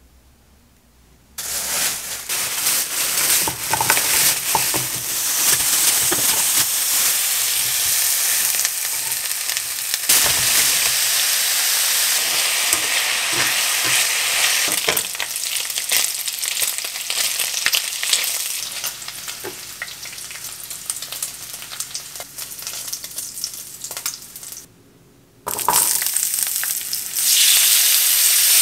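Thin-sliced pork belly sizzling as it fries in oil in a nonstick pan, with metal tongs clicking against the pan as the pieces are turned. Near the end, after a brief break, garlic cloves and kimchi sizzle in the pan.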